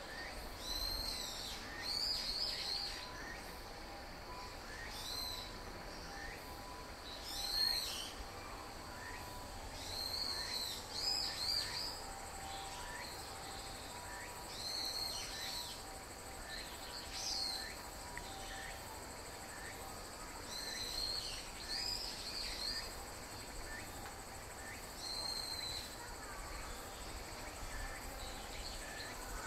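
Short, high-pitched bird calls, each a quick rising-and-falling chirp, repeated at irregular intervals of one to a few seconds, over a steady faint background hiss.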